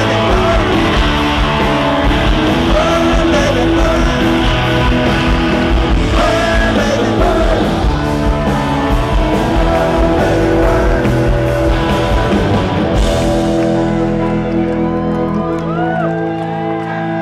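Live rock band playing a loud dance groove with drums and guitar, with some singing over it; the drums drop out about three-quarters of the way through, leaving held chords and a voice.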